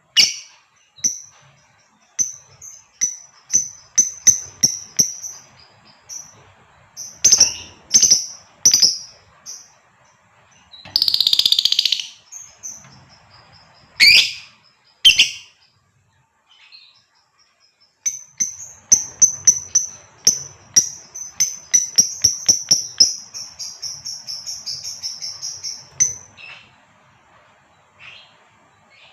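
Female lovebird calling: sharp, high single chirps, a harsh screech about eleven seconds in, then a long, rapid chattering run of chirps lasting about seven seconds.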